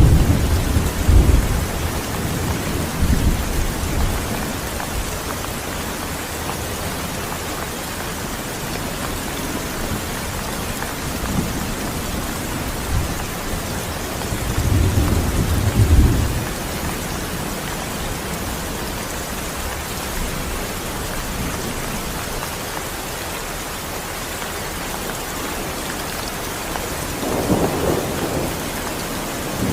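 Steady rain falling, with low rumbles of thunder rolling in at the start, again about halfway through, and near the end.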